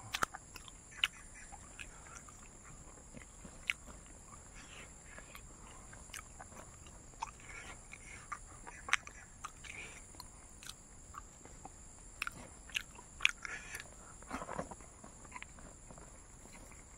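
A person chewing and biting food up close, with scattered short crisp crunches and mouth clicks.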